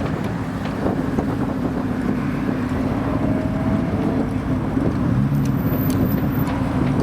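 A car's engine running steadily as it moves slowly past, a low even note held throughout.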